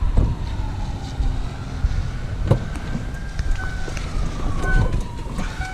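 A vehicle's low engine rumble, with a faint drawn-out tone that slowly rises and then falls, and a couple of short knocks.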